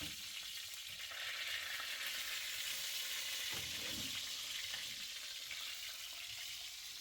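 Food frying in a pan: a steady sizzling hiss, swelling slightly in the middle, with a faint knock about four seconds in.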